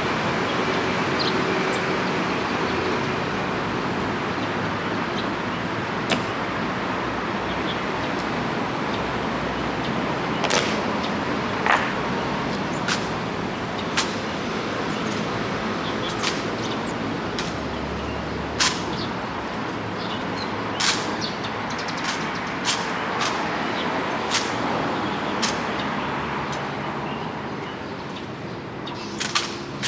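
Steady rain noise with more than a dozen sharp cracks from the naval honor guard's drill (boot-heel strikes and rifle handling), coming closer together in the second half.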